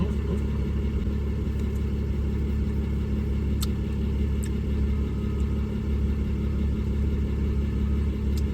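Steady engine hum heard from inside a vehicle's cab, with a couple of faint ticks a little past the middle.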